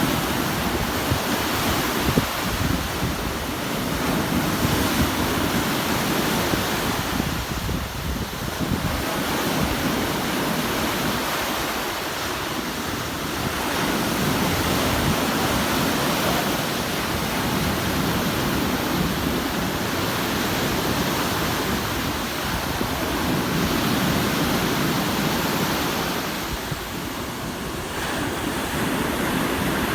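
Sea waves washing onto the shore: a continuous surf that swells and eases every several seconds, with some wind rumble on the microphone.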